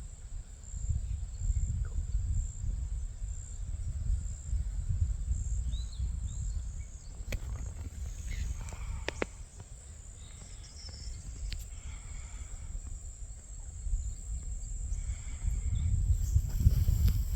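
Outdoor field ambience: wind rumbling on the microphone, with a steady high insect trill above it. The rumble grows louder near the end.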